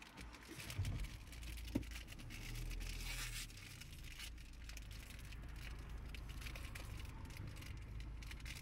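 Plastic packaging of a small Sonny Angel toy crinkling and rustling faintly as it is worked open by hand, with a few small clicks, over a low steady rumble.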